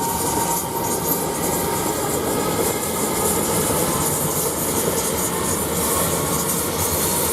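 Elizabeth line Class 345 electric multiple unit running through the station, a steady noise of wheels on rails with a faint whine over it.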